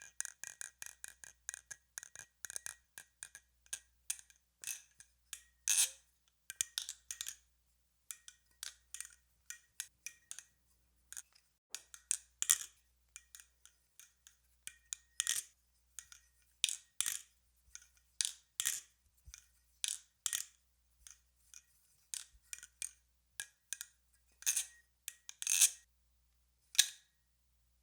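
Nabalis Crescent balisong (butterfly knife) being flipped: a run of irregular metallic clicks and clacks as the handles swing and rattle against each other and the blade. Every second or so there is a sharper, louder clack, some with a light ring.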